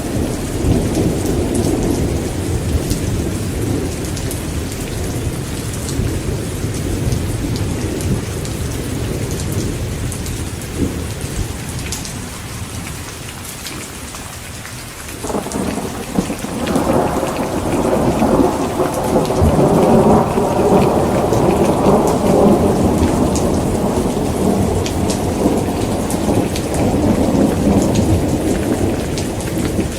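Heavy rain falling steadily, with rolling thunder. One rumble dies away about halfway through. A new roll of thunder then breaks in abruptly and rumbles on loudly to the end.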